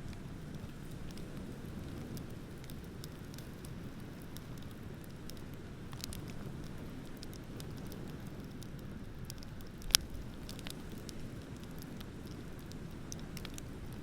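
Wood bonfire crackling with scattered small pops and one sharp, loud pop about ten seconds in, over a steady low rush of ocean waves.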